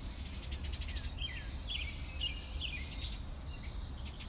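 A bird chirping: about a second in, a run of short, falling chirps over a low steady rumble.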